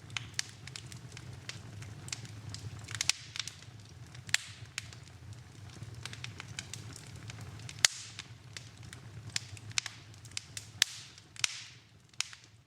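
Wood fire burning in a fireplace: irregular crackling and sharp pops over a low, steady rumble of flame, with one loud pop about eight seconds in. The rumble falls away near the end.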